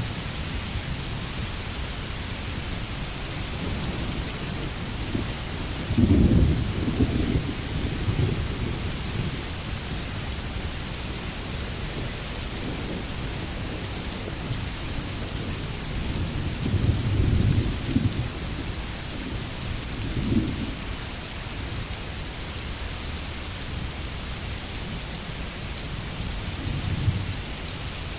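Steady rain with distant thunder rumbling over it: the loudest roll comes about six seconds in, another long one a few seconds past the middle, and weaker rumbles follow, one shortly after that and one near the end.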